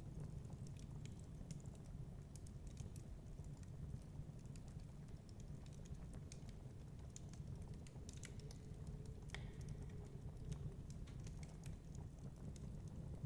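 Wood fire crackling in a fireplace: irregular small pops and snaps over a steady low rumble, with one sharper pop about nine seconds in.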